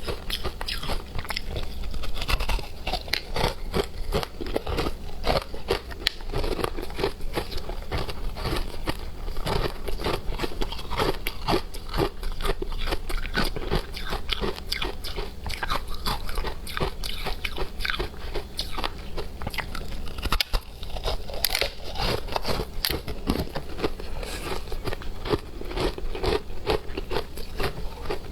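Hard frozen matcha ice being bitten and chewed: a dense, irregular run of sharp crunches.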